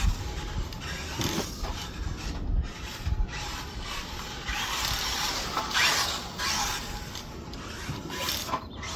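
Small 1/24-scale RC short course truck driving: its brushed electric motor and plastic gears whir, swelling and falling as the throttle is worked.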